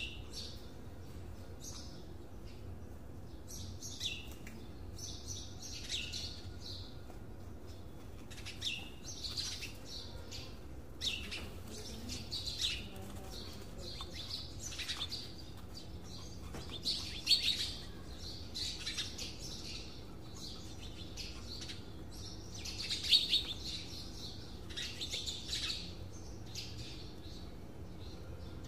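Birds chirping in irregular clusters of short, high calls, over a faint steady low hum.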